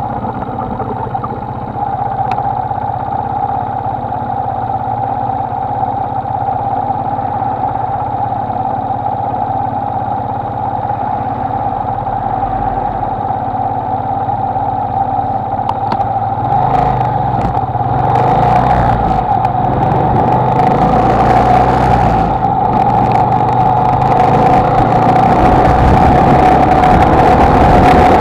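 Honda XLR125R single-cylinder motorcycle engine running at a steady cruise while riding. Wind noise on the microphone grows over the second half as the engine note and overall level rise slightly.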